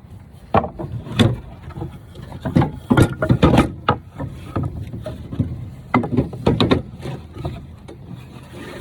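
Plywood and 2x4 lumber knocking and clunking as pieces are handled and set in place, in irregular sharp knocks.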